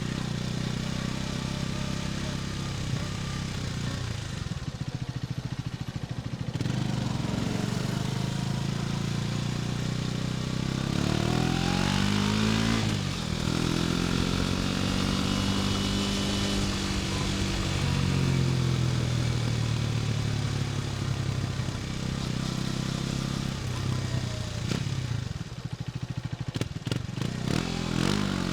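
KTM 250 Duke's single-cylinder engine running on the move, its pitch rising and falling several times as the throttle is opened and eased off.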